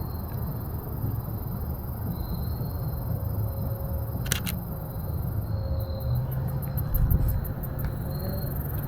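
Evening insects trilling steadily with a faint run of rapid high ticks, over a low rumble. About four seconds in, a sharp double click: the mirrorless camera's shutter firing once.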